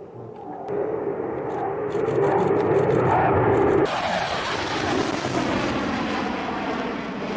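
Jet airplane engine noise that builds over the first two seconds and holds loud. About four seconds in it turns abruptly hissier.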